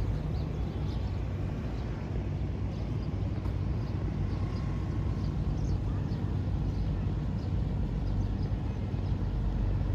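Outdoor ambience: a steady low rumble of distant town traffic, with faint, scattered short bird chirps.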